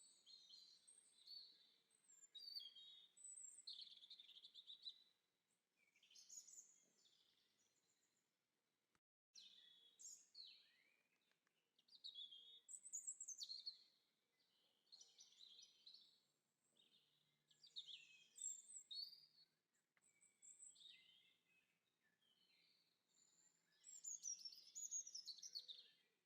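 Faint songbird song: short, quick chirping and warbling phrases, high-pitched, repeating every second or two, with a brief pause about eight seconds in.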